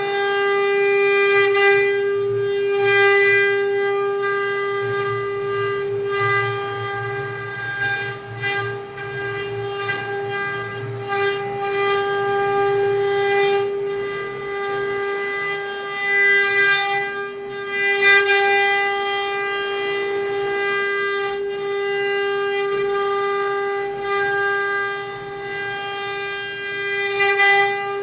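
CNC router spindle running with a steady whine that holds one pitch, with irregular louder surges over it.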